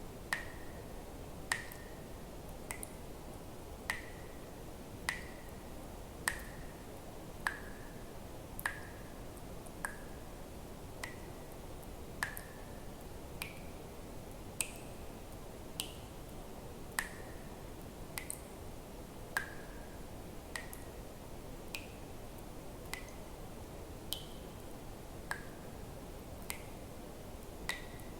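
Water drops falling one at a time into water, each a short plink, about one every second and a bit in an even rhythm, some pitched higher than others, over a faint steady hiss.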